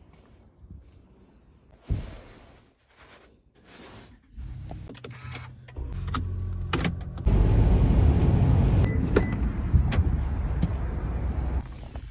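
A Toyota Camry heard from inside the cabin: a thump about two seconds in, then the car starts and runs with a low rumble that grows louder in steps. About seven seconds in a broad rushing noise joins it and becomes the loudest part.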